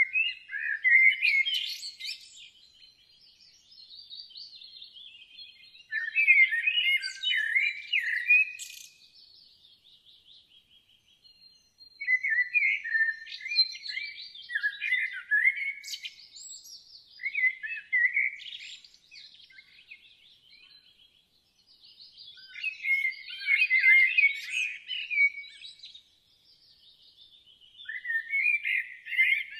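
Songbirds singing in warbling, chirpy phrases a few seconds long, each followed by a quieter gap of a few seconds.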